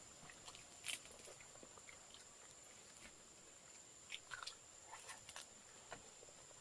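Faint chewing and crunching on crispy grilled rat meat: scattered small crunches and clicks, the loudest about a second in.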